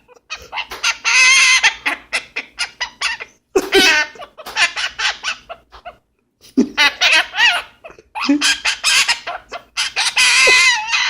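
Cherry-headed conure calling and chattering loudly in several quick runs of harsh, shifting-pitch squawks, with a short pause midway.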